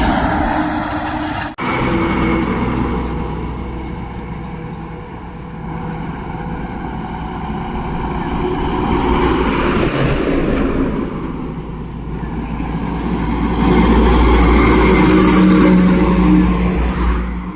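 Heavy loaded truck's diesel engine running under load, with a low rumble, swelling louder around the middle and loudest a few seconds before the end. A brief break about a second and a half in.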